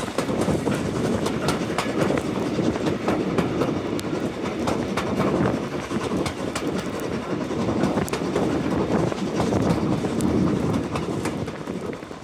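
Railway carriage running along the line, heard from the carriage window: a steady rumble of wheels on rail with frequent clicks over the rail joints, fading away near the end.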